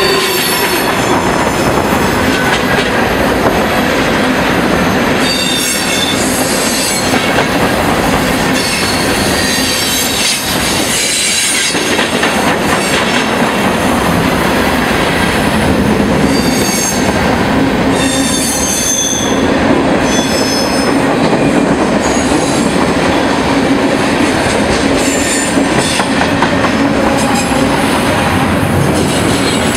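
Freight train cars rolling past close by: steady rumble and clatter of steel wheels on the rails, with high-pitched wheel squeals coming and going.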